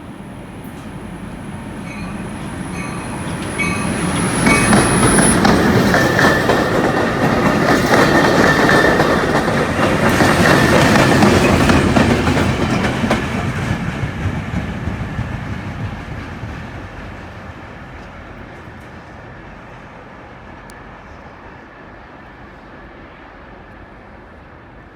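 Long Island Rail Road train passing at speed, its wheels clacking over the rail joints. It builds for the first few seconds, is loudest from about four to thirteen seconds in, then fades away.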